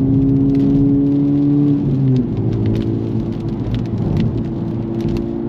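Honda Civic Type R (FL5) turbocharged 2.0-litre four-cylinder engine running steadily, heard from inside the cabin; its note drops to a lower pitch about two seconds in. Raindrops tick on the car throughout.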